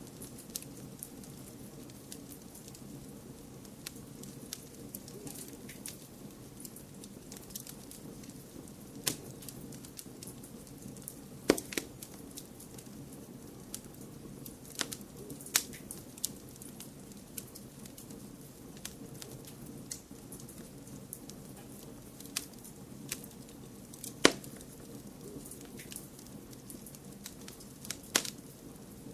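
Wood fire crackling, with irregular sharp pops and snaps over a steady low rushing noise. Two pops stand out louder than the rest, one near the middle and one about two-thirds through.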